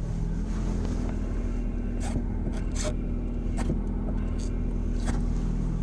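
Manual-transmission car running with a steady whirring 'windy noise' from around the clutch, the kind that grows louder when the clutch pedal is partly pressed. A few faint ticks sound over the steady drone.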